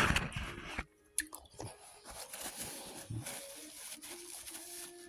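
Close chewing and crunching of food, loudest in the first second, then softer, scattered chewing noises.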